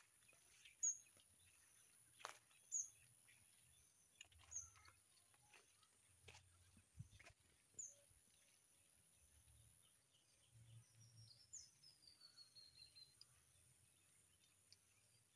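Near silence with faint outdoor ambience. A bird gives short high chirps every two seconds or so, and a longer falling whistle comes about eleven seconds in.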